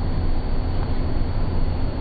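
Passenger train running along the track, a steady low rumble with an even hiss above it.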